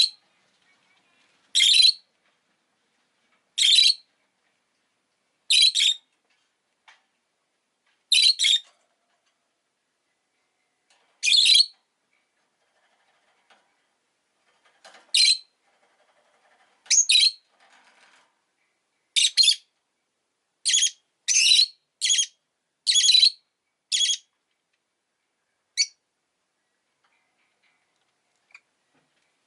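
Rosy-faced lovebird giving short, high-pitched chirps, about one every two seconds, some doubled, coming quicker about halfway through and stopping shortly before the end.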